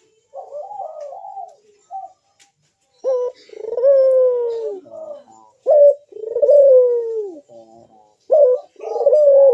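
Barbary dove (puter dove) cooing loudly and repeatedly: a short, warbling coo, then three long, drawn-out coos that each fall in pitch at the end. This is a lure call, meant to draw other puter doves to answer.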